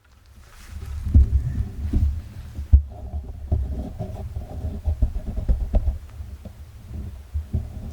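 Canoe being paddled: a low rumbling with irregular knocks and thumps from the paddle and hull.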